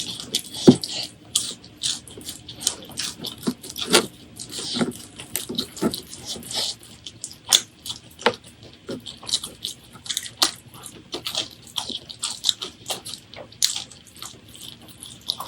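Close-miked eating sounds: wet chewing and lip smacking, with many irregular sharp clicks and crackles.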